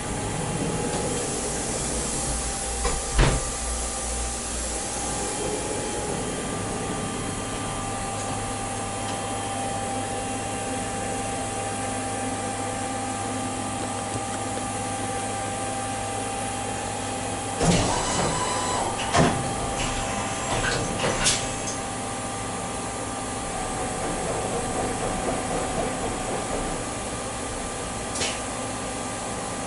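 Metal lathe running while round bar is machined: a steady hum with a constant whine, a sharp knock a few seconds in, and a cluster of knocks and clicks just past the middle.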